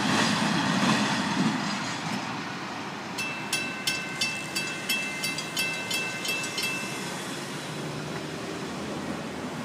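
Freight train's last cars rolling past and fading away. From about three seconds in, a grade-crossing bell dings roughly three times a second as the gates go up, stopping around seven seconds in.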